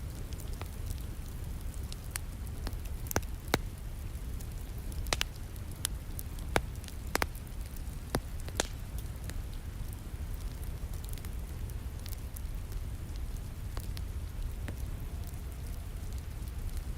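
Wood fire crackling in a fireplace, with sharp pops scattered irregularly and the loudest of them in the first half, over a steady patter of rain.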